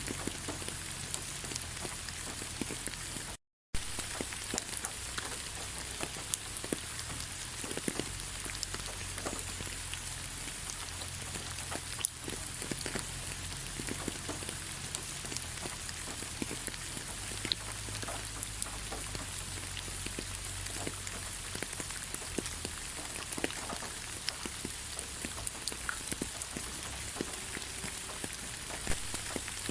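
Steady rain: an even hiss with many individual drops ticking through it. It cuts out completely for a split second about three and a half seconds in.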